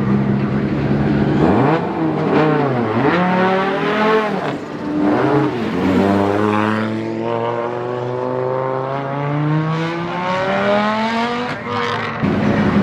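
Rally car engine revving hard while spinning donuts: the revs swing up and down several times, then climb in one long rise before settling back.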